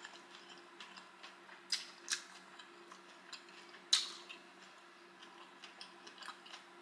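Close-miked chewing of a fried seafood egg roll: small wet mouth clicks, with two sharper clicks about 1.7 s and 4 s in, over a faint steady hum.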